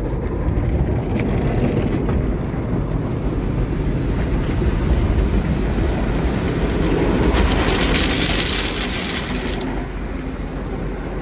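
Automatic car wash running over a car, heard from inside the car: a steady rumbling wash of noise, with a stretch of high hissing water spray against the car from about seven to nine and a half seconds in.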